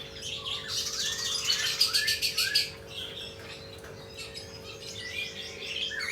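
Songbird singing a varied, busy song: a fast rattling trill about a second in, over a run of short curved whistled notes, then quicker chattering phrases near the end.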